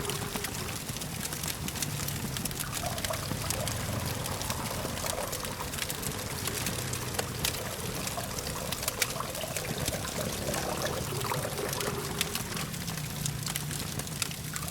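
Wood campfire crackling, with many small irregular pops and snaps over a soft hiss, against a steady low hum of distant traffic.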